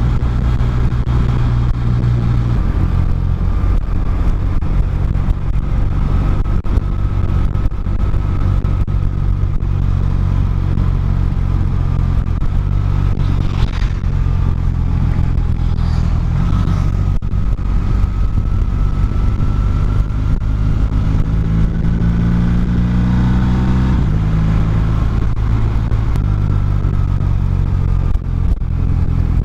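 Motorcycle engine running at road speed, heard from on the bike; its note steps up and down several times as the rider changes speed.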